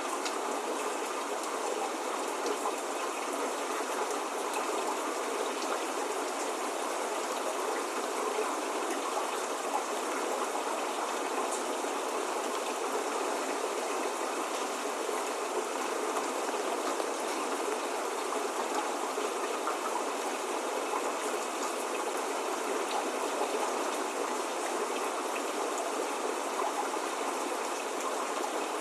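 Steady rain falling: an even hiss with the faint patter of single drops, unchanging throughout.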